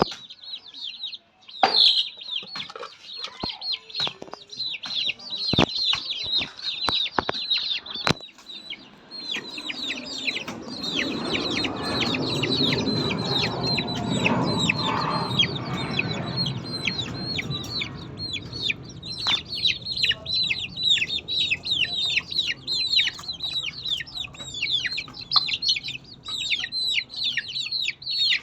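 A crowd of young poultry chicks peeping non-stop, many short high calls falling in pitch. There are a few knocks in the first several seconds, and a rushing noise swells under the peeping in the middle.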